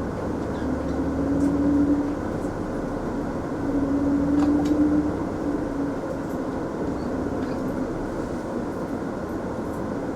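Mitsubishi Fuso Aerostar city bus heard from inside the cabin: its diesel engine pulls with a rising drone twice, about a second in and again about four seconds in, each time growing louder and then dropping back, and then runs on more evenly over the road noise.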